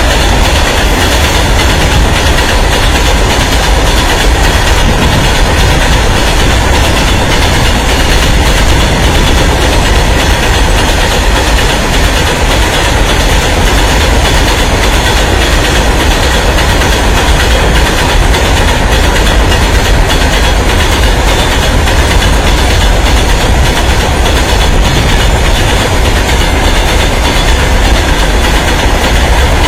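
A loud, steady rumble that keeps up without a break, heaviest in the low end.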